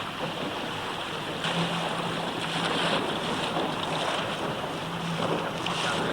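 Wind buffeting the microphone and water rushing and splashing past a boat on open water, swelling in gusts, with a low steady hum that comes and goes underneath.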